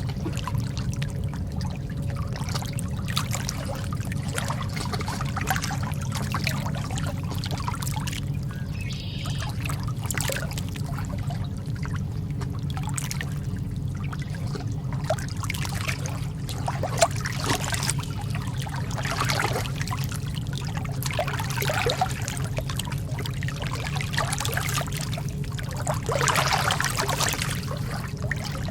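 Lake water lapping and trickling at the shore, with many small irregular splashes over a steady low rumble.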